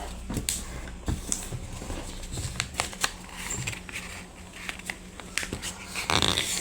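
A sheet of paper being folded and creased by hand: scattered soft rustles and small taps, with a louder rustle near the end.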